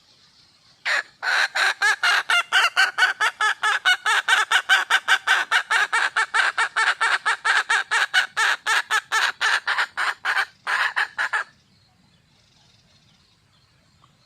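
Wild junglefowl hen calling for a mate: a long run of rapid, evenly spaced clucks that starts about a second in and stops suddenly about eleven and a half seconds in. Faint insects trill behind it.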